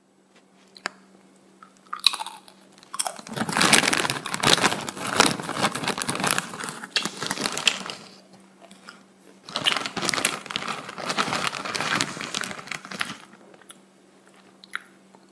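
A crisp waffle cone being bitten and chewed, in two long stretches of dense crunching with a short pause between.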